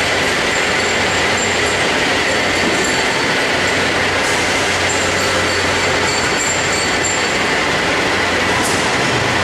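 Automatic ring seam welding machine at work: a steady, loud hiss with a constant low hum and a faint high whine, unbroken throughout.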